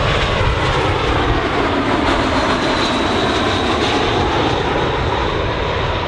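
Fixed-wing airliner engines, a loud, steady roar from an aircraft close by, with a faint tone that dips in pitch midway and climbs again.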